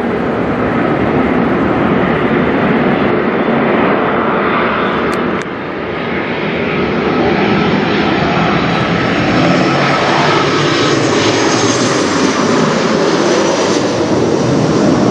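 Boeing 737-800 jet airliner flying low overhead, a loud steady engine rush. It drops suddenly about five seconds in, then swells again with a high engine whine.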